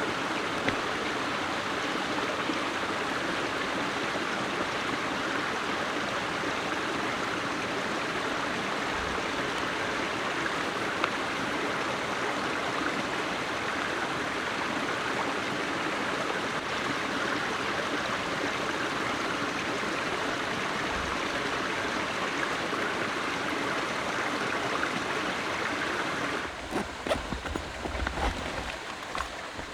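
A stream running steadily, a continuous rush of flowing water. Near the end the water sound drops away and a few low knocks follow.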